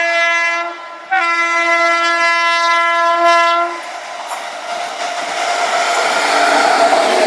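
Indian Railways train horn blowing a steady note, cut off briefly about a second in, then sounding again until past halfway. After it stops, the rumble of the moving train takes over and grows louder.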